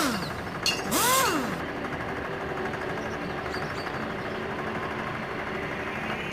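Dirt bike engine revved once about a second in, its pitch rising and falling, then running steadily at idle.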